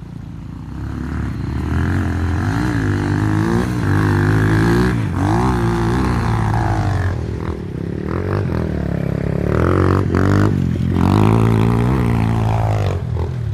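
Small four-stroke dirt bike engine revving up and dropping back again and again while riding, its pitch climbing and falling every second or so.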